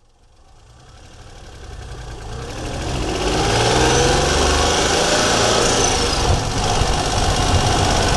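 Daihatsu Charade GTti's turbocharged three-cylinder engine running, heard from the engine bay, fading in over the first three seconds and then steady, with a faint whine slowly rising in pitch.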